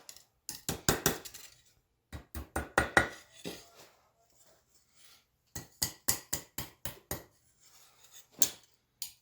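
Blacksmith's hammer striking a railroad spike on an anvil in quick runs of blows, with short pauses between runs, forming the hook at the spike's tip.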